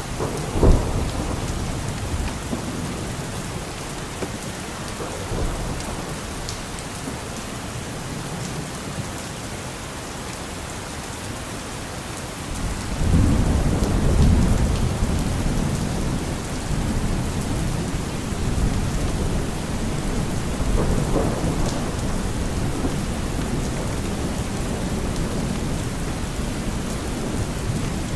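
Steady rain with rolling thunder: a short low rumble near the start, then a longer, louder low rumble about halfway through that slowly fades back into the rain.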